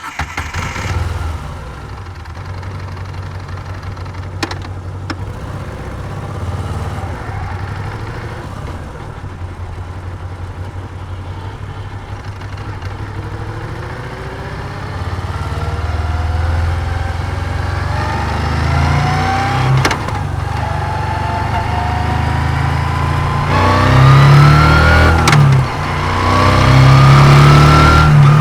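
Moto Guzzi V7's air-cooled transverse V-twin catching and settling into a steady idle, then pulling away: the revs climb, drop briefly at a gear change near the end, and climb again.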